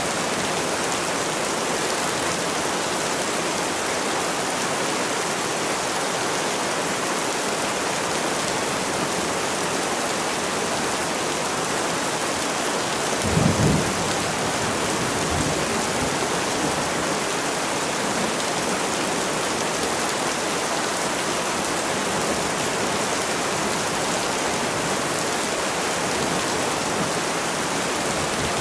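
Steady rain falling, an even hiss throughout. About halfway through, a brief low rumble stands out as the loudest moment, with a fainter one a couple of seconds later.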